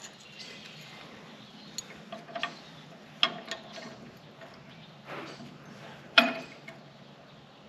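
Small metal parts clinking and tapping, a few sharp clicks with a brief metallic ring, the loudest about six seconds in: steel washers and bolts being handled and fitted back on.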